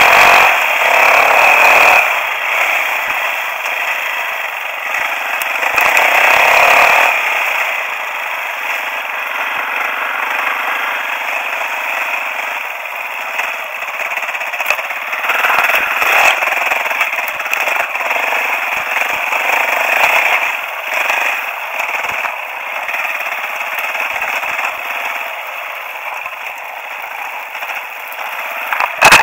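Aprilia Tuono motorcycle engine running at speed under heavy wind rush, growing louder and easing off in several surges.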